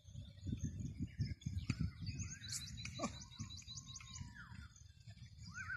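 Birds chirping: several short arching calls and, in the middle, a rapid trill of about eight high ticks a second, over a low rumble.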